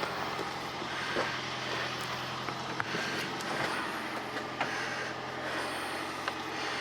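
Second-generation Toyota Prius's 1.5-litre four-cylinder petrol engine running at a steady idle, charging the weak hybrid battery pack, with a few faint ticks.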